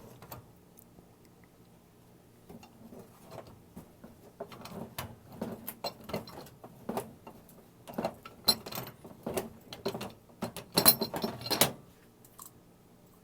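Irregular metallic clicking and clanking of tools and pipe fittings as the old boiler water pressure regulator is worked loose and taken out. The clatter grows busier after a couple of seconds and is loudest just before it stops, near the end.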